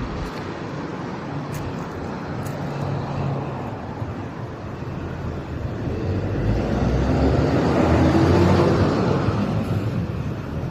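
Road traffic noise with a motor vehicle passing close by; its engine and tyre sound swells to a peak about eight seconds in and then fades.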